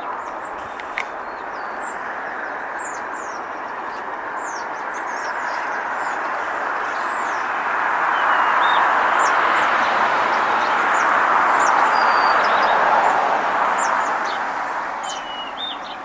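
Road traffic noise that swells as a vehicle passes, loudest a little past the middle and fading near the end, with small birds chirping in short high calls throughout.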